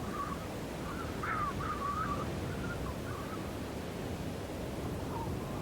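Steady blowing wind of a snowstorm, with short wavering high whistle-like calls breaking in over the first three seconds and once more near the end.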